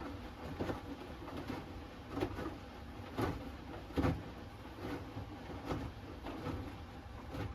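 Front-loading washing machine drum turning a wet load: a steady hum with irregular soft thuds and swishes as the laundry tumbles and drops through the water.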